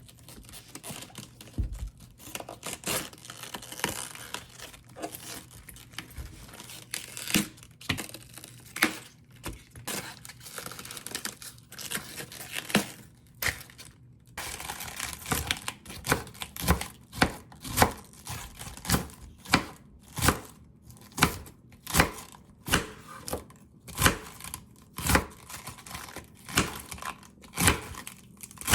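Kitchen food-preparation sounds: crinkling and tearing, then from about halfway a steady run of sharp knocks, roughly two a second.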